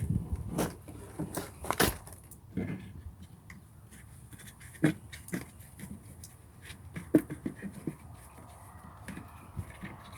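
Irregular clicks and knocks of hands handling plastic vacuum cleaner parts, with several sharper knocks in the first two seconds.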